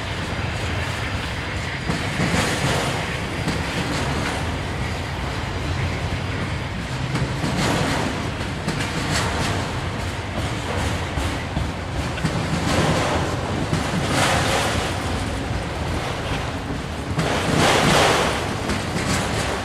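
Freight train rolling past, its cars' wheels rumbling and clacking along the rails, with several louder swells, the loudest near the end.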